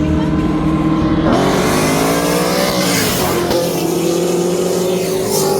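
Vehicle engine at a steady note, then accelerating hard from about a second in with its pitch climbing. The pitch drops back about three seconds in, as at a gear shift, then climbs steadily again.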